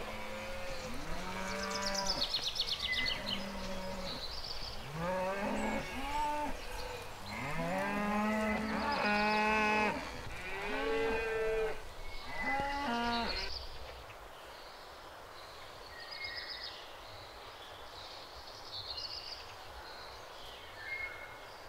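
Several cows mooing, long low calls overlapping and following one another; the mooing stops about thirteen seconds in, leaving a quieter background with faint high chirps.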